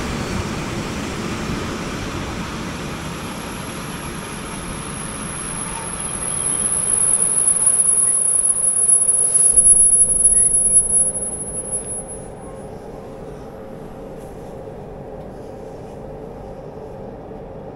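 Passenger train running with a rumble, then a thin, high-pitched squeal as it brakes. The squeal is loudest just before it cuts off about twelve seconds in, as the train comes to a stop. A lower steady hum remains.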